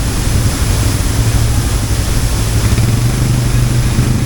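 ATV engine running steadily with a low hum, under a constant rushing noise.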